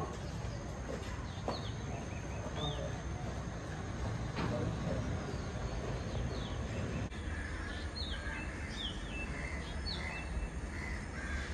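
Birds chirping, many short falling calls that grow more frequent in the last few seconds, over a steady low background rumble.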